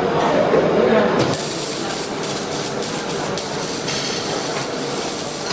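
A voice is heard for about the first second, then a steady hissing noise.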